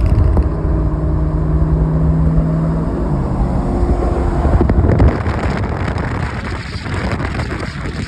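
A truck engine running loudly with a deep rumble; its note holds steady, then shifts about three seconds in.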